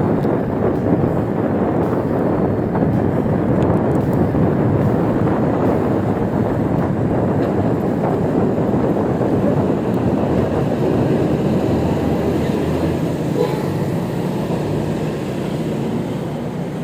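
Steady rushing noise of wind on the microphone and road noise while riding an e-bike, easing a little near the end.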